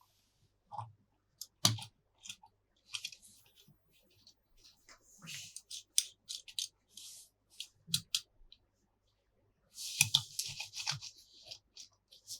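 Toy packaging being handled and opened: irregular crinkling, snipping and clicking, with a longer burst of crinkling about ten seconds in.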